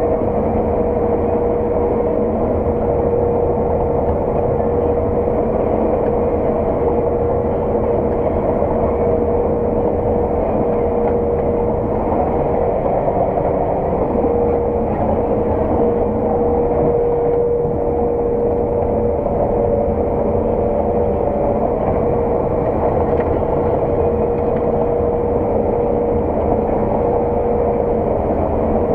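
Harvest machinery running steadily at work, heard from inside the cab: a dense, even drone with a constant high whine held over it.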